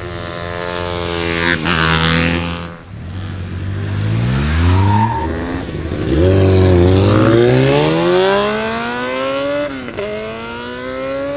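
A car engine accelerating hard through the gears, its pitch climbing under full throttle and dropping back at each of about three gear changes.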